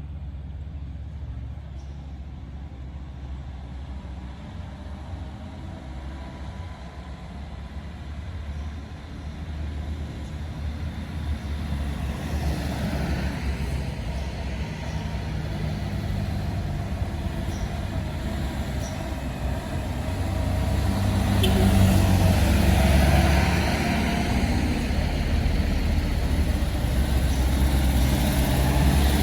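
Truck engine running and being revved, its low rumble building in loudness through the middle and loudest about two-thirds of the way through.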